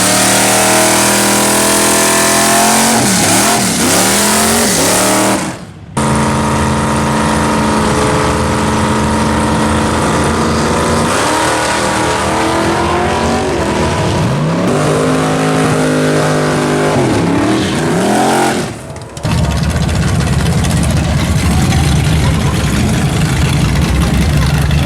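Drag-race car engines running hard at high revs, with several short dips and blips in pitch. The sound breaks off abruptly twice, and in the last few seconds a rougher, lower engine rumble takes over.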